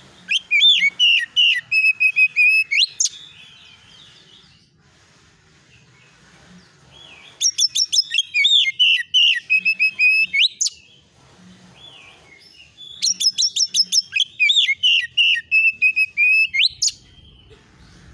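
Oriental magpie-robin (kacer) singing in the agitated 'konslet' style. There are three bursts of about three seconds, each a fast run of repeated chattering notes that ends in a sharp rising whistle.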